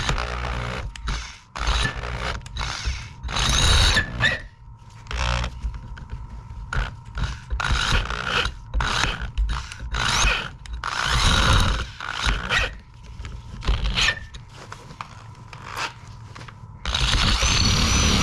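Short, irregular bursts of scraping tool work on metal, then a power drill running steadily for about a second near the end: the mounting holes being drilled out so the part lines up.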